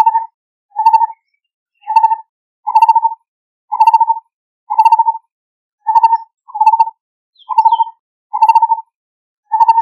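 Lineated barbet calling: a short, low trilled note near 1 kHz, repeated steadily about once a second.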